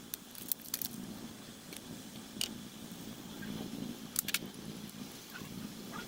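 Sharp, irregular metallic clicks and clinks of small metal parts or hand tools being handled, a few close together near the start and again about four seconds in.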